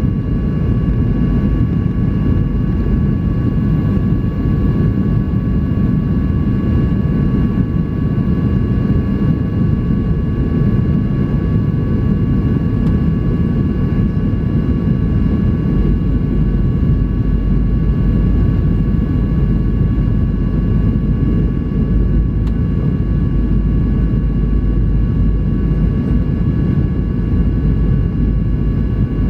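Steady cabin noise inside a Boeing 737-800 in flight: the even rush of air past the fuselage and the hum of its CFM56-7B turbofan engines, with a few faint steady whining tones above it.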